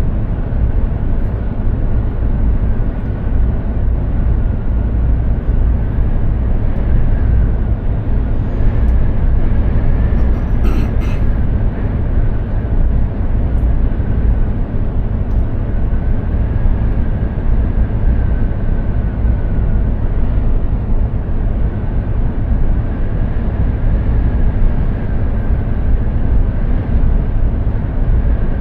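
Mercedes-Benz Actros 2763 heavy truck on the road: steady straight-six diesel engine and road rumble. There is a brief sharper sound about eleven seconds in.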